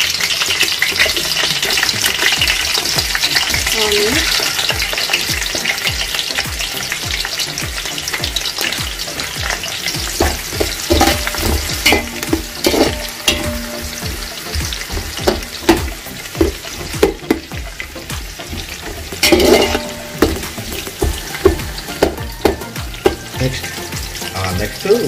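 Green chillies frying in hot oil in a cooking pan: a steady sizzle that slowly dies down. A spatula stirs through it, scraping and knocking against the pan, and from about ten seconds in the knocks come often and sharp.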